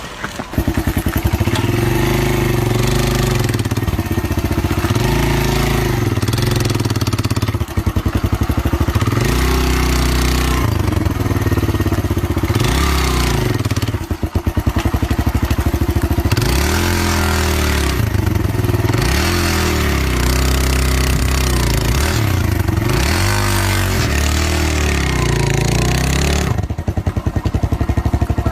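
A motor engine running, its pitch rising and falling over and over as it revs up and eases off.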